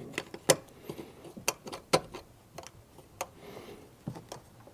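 Plastic interior trim clip and panel being worked and pressed into place by hand: a scattering of small clicks and taps.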